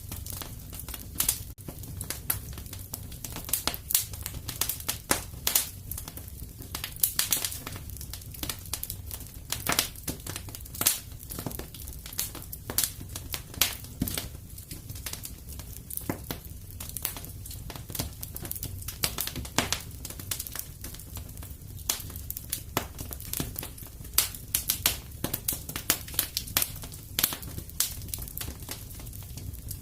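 Fireplace fire crackling, with frequent irregular sharp snaps over a steady low rumble.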